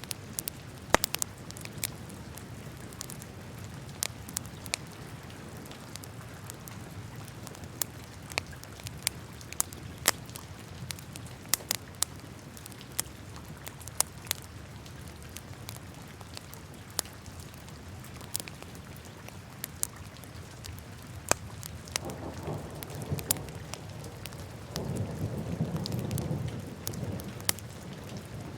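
Wood fire burning in a fireplace: irregular sharp crackles and pops over a steady low rush of flames. A louder low rush swells briefly about three-quarters of the way through, then again for a couple of seconds near the end.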